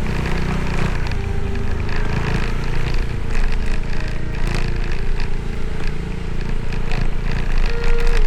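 Motorcycle riding along, its engine running under a steady, heavy rumble of wind and road noise, with scattered clicks and rattles.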